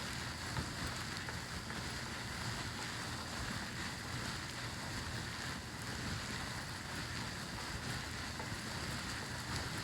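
Fingers massaging oiled hair close to the microphone, a steady fine rustling.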